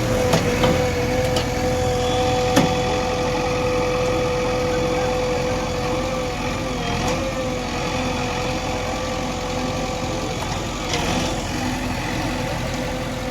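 Heavy diesel machinery engine running steadily, with a steady high whine over the engine noise and a few sharp knocks in the first few seconds.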